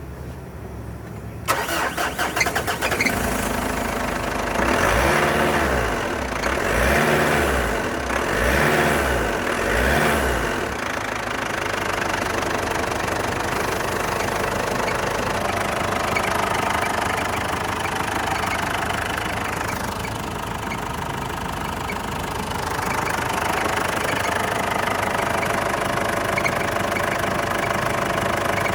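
2009 Ford Ranger engine cranked on the starter and catching, then revved up and down several times before settling to a steady idle.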